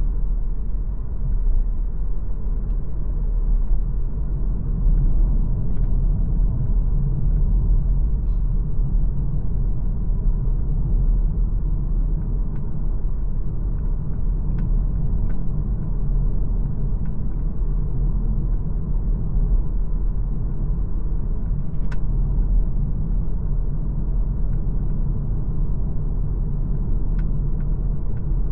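Steady low rumble of an MG ZS Hybrid+ on the move, with a few faint brief clicks along the way.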